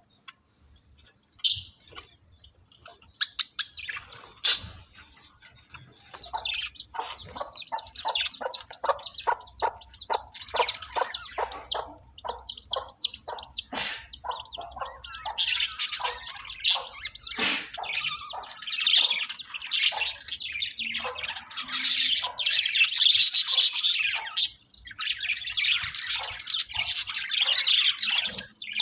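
Budgerigars chirping and warbling. A fast string of short chirps builds, about halfway through, into dense, continuous chatter.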